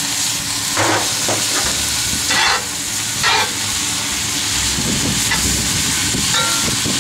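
Chicken, peppers and onions sizzling in a hot cast iron skillet as lime juice goes in, with a steady high hiss. From about halfway a utensil scrapes and stirs through the food in the pan.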